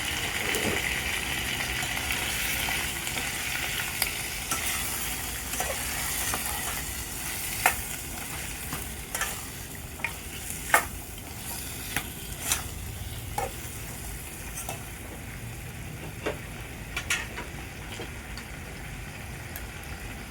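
Chicken feet sizzling in a hot pot while being stirred, with the metal utensil clicking sharply against the pot again and again. The sizzle dies down about halfway through, leaving mostly the clicks.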